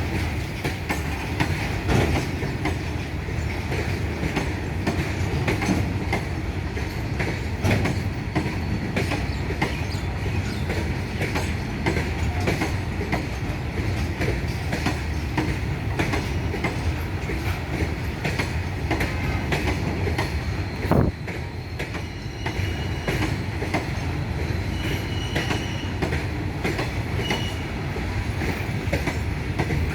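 Freight train of bogie open wagons rolling past, its wheels clattering over rail joints in a steady clickety-clack. There is one louder bang about 21 seconds in, and faint brief wheel squeals near the end.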